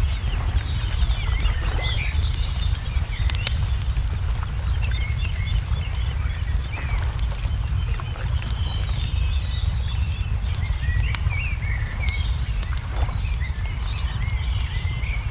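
Wood fire crackling with scattered sharp pops, under many small birds chirping in short calls throughout, over a steady low rumble.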